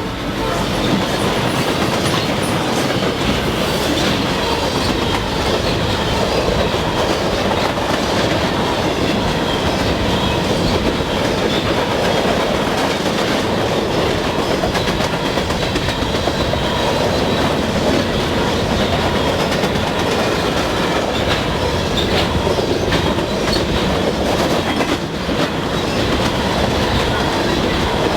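Freight train rolling past: a steady rumble of cars and wheels with clicking over the rail joints.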